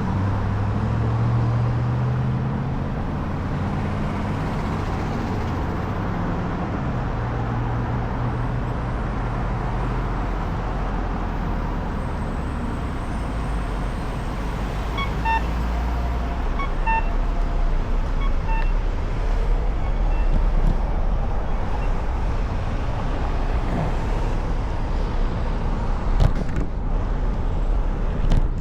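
City road traffic heard from a moving bicycle: a steady rumble of passing cars and trucks. A few short high electronic beeps sound about halfway through.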